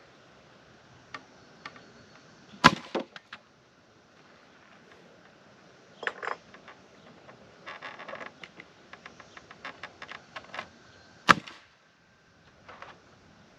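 Sharp knocks on wood from framing work on a wooden wall frame: two loud cracking strikes about eight seconds apart, with lighter knocks and a quick run of small ticks in between.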